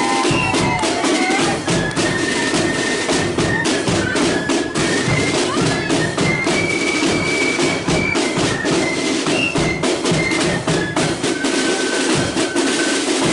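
Flute band playing a march: shrill flutes holding and changing notes over frequent drum strokes.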